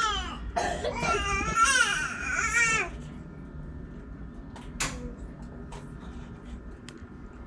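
A young child crying in a high, wavering voice for about three seconds, then a single sharp click.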